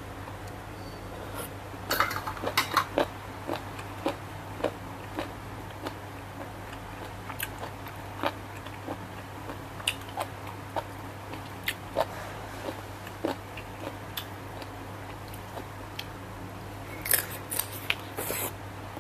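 Eating a seafood salad: irregular crisp clicks and crunches of chewing, with busier clatter about two seconds in and near the end, over a steady low hum.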